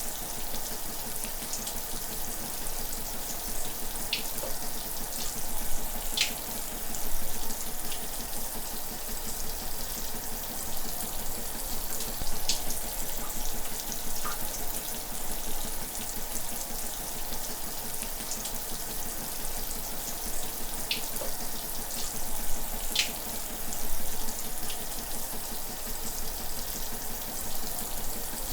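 Shower water running steadily, a continuous hiss of spray with a few brief, sharper splashes scattered through it.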